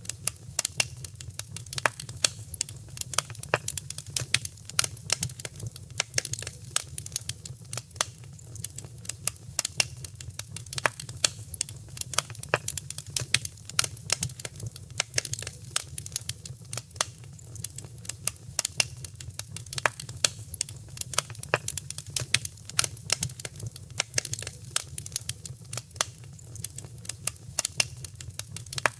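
Wood fire crackling in a fireplace: frequent sharp pops and snaps, several a second, over a steady low hum.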